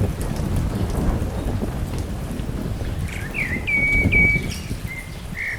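Wind buffeting the microphone with a gusting low rumble, and from about three seconds in a bird calling: a few short rising chirps and level whistled notes.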